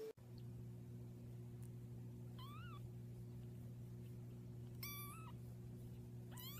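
A cat meowing faintly: three short meows, about two and a half seconds in, about five seconds in, and a rising one right at the end, over a steady low hum.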